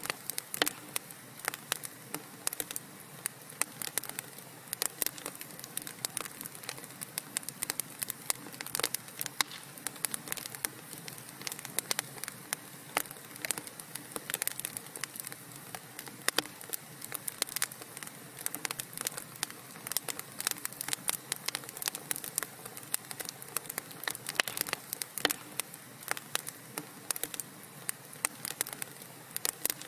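Wood fire crackling in a fireplace: frequent irregular sharp pops and snaps over a soft steady hiss of burning.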